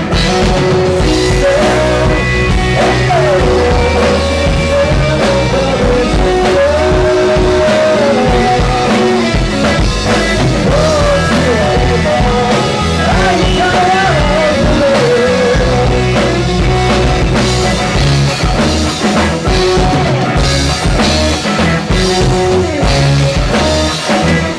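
A rock band playing the instrumental ending of a song: drum kit, bass and electric guitars, with a wavering lead melody over them.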